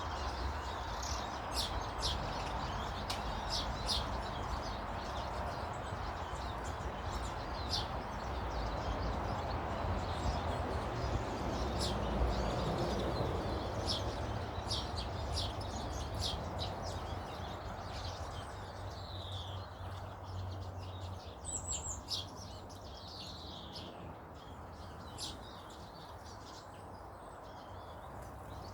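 Small garden birds chirping repeatedly in short high notes, with a few sliding calls in the second half. Under them is a steady rushing background noise that swells to a peak about halfway through and fades away.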